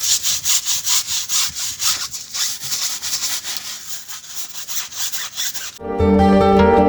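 Rhythmic scrubbing of a car by hand: quick back-and-forth rubbing strokes, about four a second, with a hissy edge. Plucked-string music comes back in near the end.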